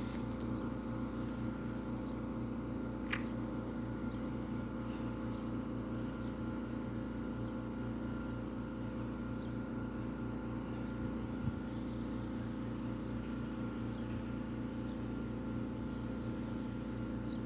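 A steady mechanical hum of a running motor, with several held low tones. A sharp click comes about three seconds in and a softer one past the middle, over faint short high chirps that repeat every second or two.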